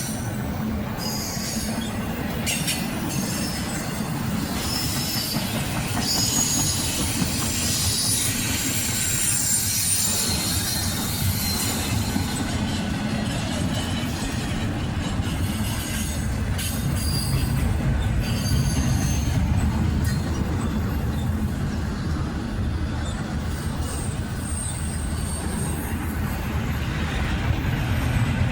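Intermodal freight train cars rolling past at a crossing: a steady low rumble with high-pitched wheel squeal coming and going.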